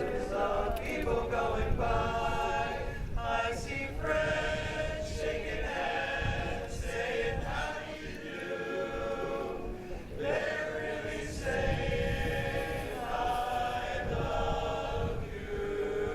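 An a cappella choir singing held chords, the notes shifting every second or so.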